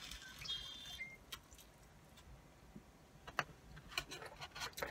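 Faint chewing of a mouthful of cheesy curly fries, with scattered small clicks and taps from a plastic fork and foam takeout box.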